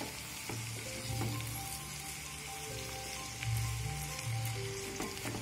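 Chopped amaranth leaves sizzling in a pan over a steady hiss, with background music of held notes and a low pulsing beat laid over it.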